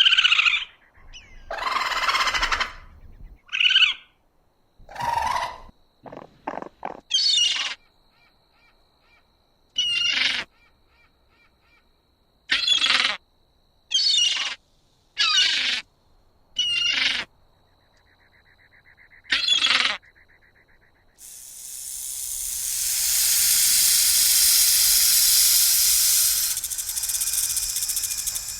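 A series of short, loud animal calls, bird-like, about six of them coming a second or two apart in the middle stretch. After that comes a long, loud, steady hiss that begins about three-quarters of the way in and runs on.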